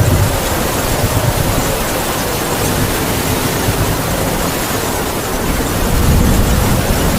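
Heavy rain falling as a steady dense hiss, with howling wind gusting low and rumbling, strongest near the start and again near the end.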